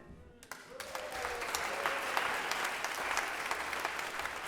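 Audience applauding at the end of a song. The clapping starts about half a second in and stays steady.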